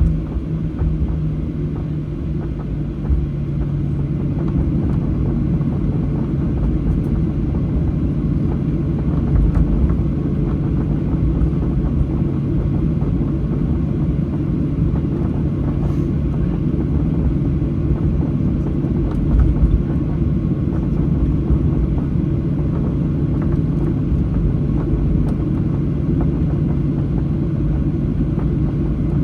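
Boeing 737-800 cabin noise while taxiing: a steady low rumble with the hum of the CFM56 engines at idle, the hum dropping slightly in pitch in the first couple of seconds.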